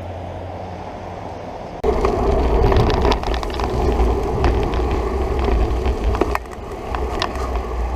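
Bicycle rolling over a rough surface: tyres rumbling and the bike rattling with many small clicks. It starts suddenly about two seconds in and eases off near the end.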